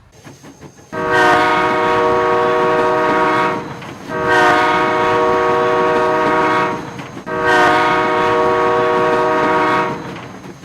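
Train horn sounding three blasts of about three seconds each, separated by short pauses. This is the signal that the train is backing up.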